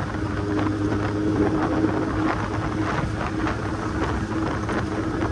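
Kawasaki Z800's inline-four engine running at a steady pitch while riding, with wind rushing over the microphone.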